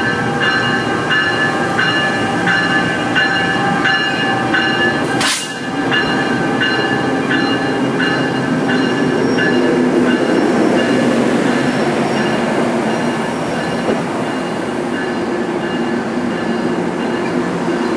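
NJ Transit commuter train rolling slowly through the station. The wheels click over rail joints about twice a second and a steady whine runs over the rumble of the cars for the first five seconds. After a sudden break a little past five seconds, only the rumble of the passing cars remains.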